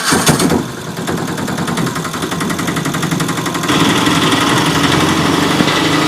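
A small vehicle engine running with a rapid, even putter, stepping up louder a little past halfway through.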